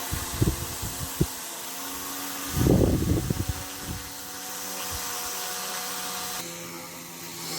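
Small electric RC motor spinning the propeller of a homemade plastic-bottle helicopter, a steady whirring hum. There are a few low thumps in the first second and a louder low rumble about three seconds in, and about six seconds in the hum drops lower in pitch.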